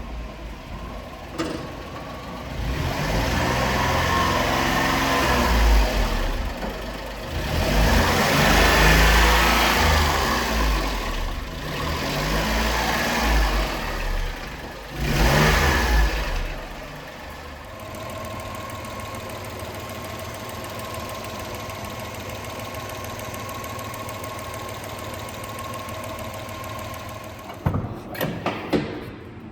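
1999 Honda Acty truck's small three-cylinder engine revved up and down four times, then settling to a steady idle. Near the end the engine stops and a few sharp clicks follow.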